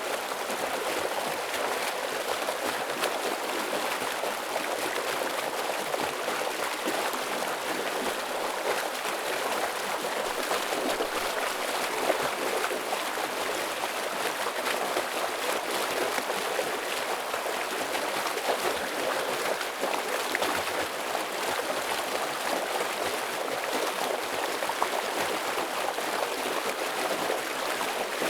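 Stream in heavy flow: a steady, even rush of water.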